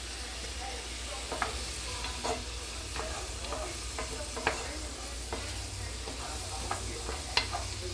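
Vegetables sizzling as they saute in a pan, with a utensil stirring them and knocking against the pan now and then.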